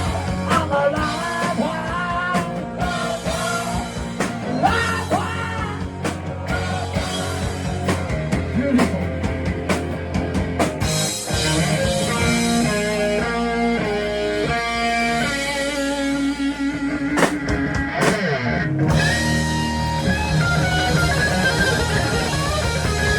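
Live rock band playing an instrumental section: lead electric guitar over bass and drums, with stepping note runs in the middle and a held, wavering note near the end.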